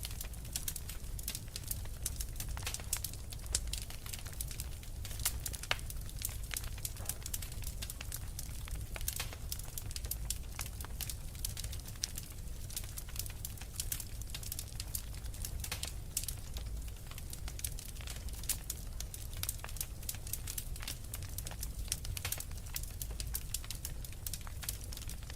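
Logs burning in a fireplace, crackling steadily with many small sharp pops over a low rumble of the flames.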